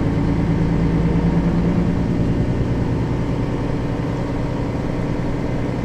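Engine of a Mercedes-Benz Citaro facelift city bus running as the bus drives, heard from inside the bus. A steady low drone carries a strong hum that eases off about two seconds in.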